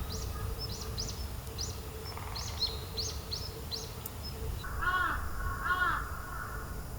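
A small bird chirping in quick, high notes, about three a second, then a crow giving two harsh caws about a second apart.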